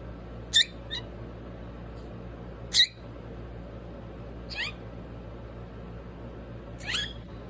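Pet parrot giving five short, high-pitched calls, the loudest about half a second and about three seconds in, the later ones sliding down in pitch.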